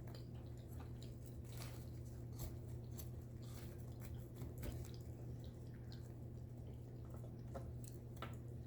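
A person chewing mouthfuls of turkey pot pie close to the microphone, with soft wet mouth sounds and scattered small clicks over a steady low hum.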